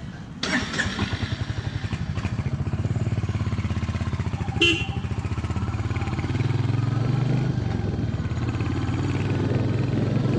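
Royal Enfield 350 single-cylinder motorcycle engine running steadily under the rider, heard from on the bike, its beat growing a little louder in the second half. A brief sharp sound cuts in about four and a half seconds in.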